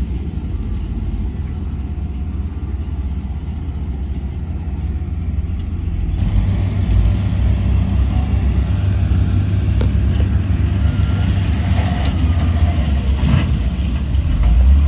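Heavy diesel engines of earth-moving machinery, a bulldozer and dump trucks working in sand, giving a steady low rumble. It grows louder and brighter about six seconds in.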